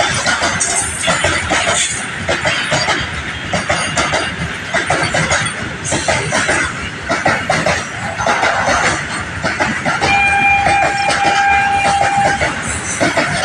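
Freight train wagons rolling past, the wheels clattering in quick, uneven clicks over the rail joints above a steady rumble. For about two seconds near the end a steady high tone sounds over it.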